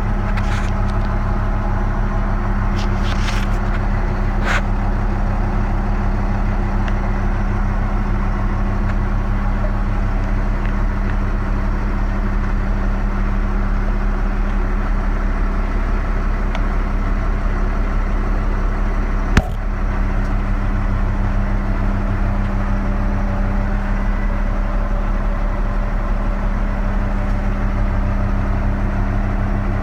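1990 International 4900 dump truck's diesel engine idling steadily, with a single sharp click about two-thirds of the way through.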